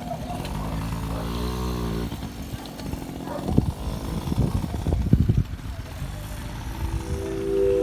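Small motocross bike engine running, revving up and back down about a second in, with several sharp knocks in the middle. Music with steady organ-like tones comes in near the end.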